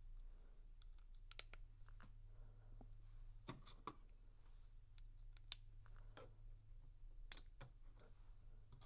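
LEGO plastic bricks clicking and tapping as pieces are handled and pressed together, in scattered single clicks with a couple of sharper snaps about five and a half and seven and a half seconds in. A faint steady low hum runs underneath.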